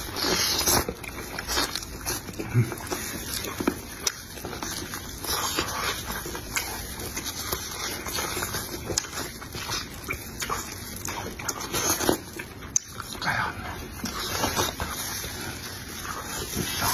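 Close-miked wet biting, chewing and lip-smacking as a person eats meat off a sauce-covered chicken leg, with irregular smacks and clicks throughout.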